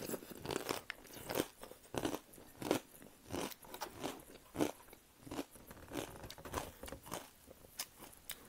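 Close-miked chewing of a mouthful of crunchy dry cereal: a steady run of about two crunches a second, growing softer near the end.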